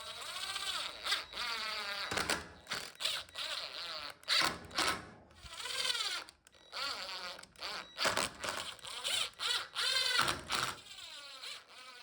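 Cordless drill driving screws through a steel yoke into a wooden joist: repeated runs of a few seconds, the motor's whine rising and falling in pitch with the trigger, broken by short knocks.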